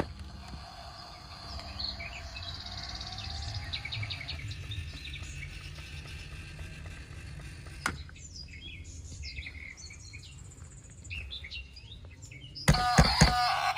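Outdoor ambience of birds chirping over a low steady rumble, with one sharp click about eight seconds in. Loud music with synthetic singing starts near the end.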